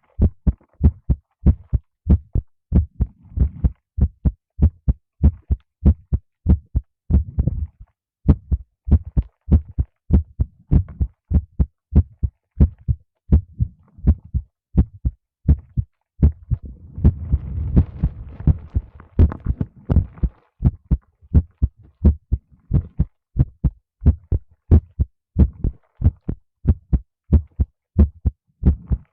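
A human heartbeat picked up close on a microphone: a steady run of low double thumps. Partway through, a few seconds of rustling or rubbing noise rise under the beats.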